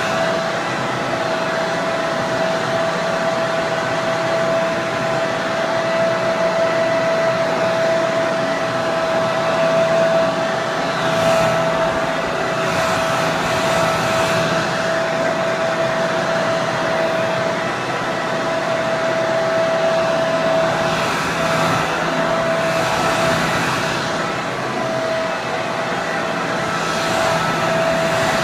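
Hair dryer running steadily: a constant rush of air with a steady motor whine, and a few brief swells in the hiss.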